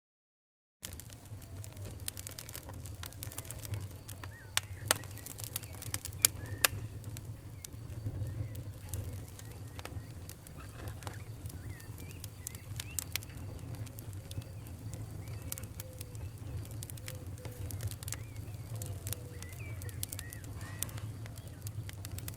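Wood fire in a fireplace crackling, with scattered sharp pops over a steady low rumble, starting about a second in after silence. Faint short chirp-like whistles come and go throughout.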